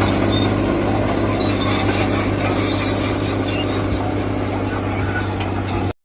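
Steady mechanical running with a high, wavering whine over a low hum, typical of the electric motors and gears of a radio-controlled model machine; it cuts off suddenly near the end.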